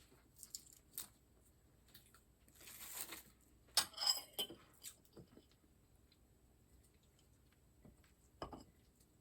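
Light handling clatter of small hard objects: scattered clicks, a short rustle about three seconds in, a cluster of sharp clinks around four seconds, and a single knock near the end.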